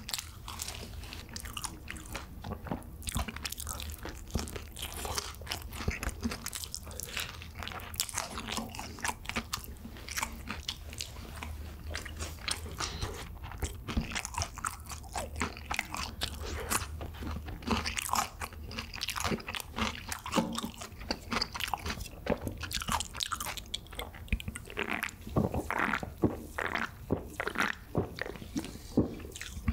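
Close-up mouth sounds of eating crispy seasoned fried chicken (BHC Bburinkle): biting into the crunchy coating and chewing, with a steady stream of crackles and crunches.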